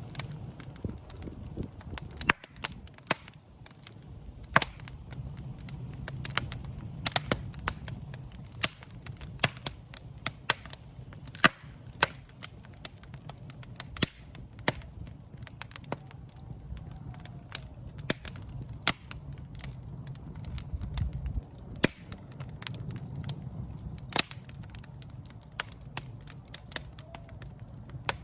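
Wood fire in a fireplace crackling, with frequent sharp irregular pops and snaps over a low, steady rumble of the flames.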